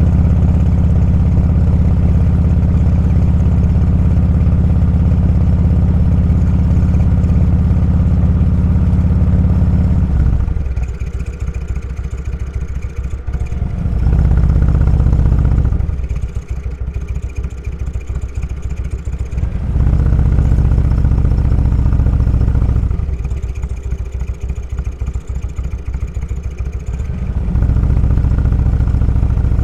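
Motorcycle engine pulling steadily under throttle, then the throttle is rolled off about ten seconds in and the engine drops to a quieter coast, picking back up three times in short stretches of a few seconds each.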